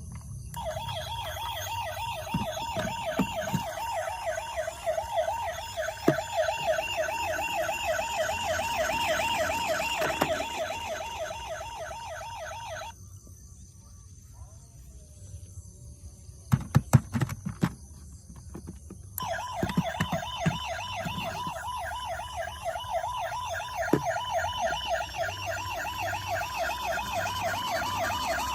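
Electronic siren of a toy emergency vehicle sounding a fast warble, stopping about 13 seconds in and starting again about six seconds later. A quick run of clicks falls in the gap.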